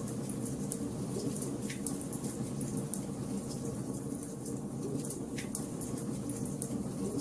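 Wood fire crackling in a fireplace: a steady low rush of burning with many small sharp crackles and a few louder pops.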